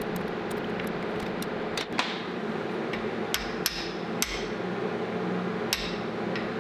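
Hammer tapping on tack-welded steel parts: several sharp metallic strikes that ring briefly, about five spread unevenly through the middle, over a steady low hum.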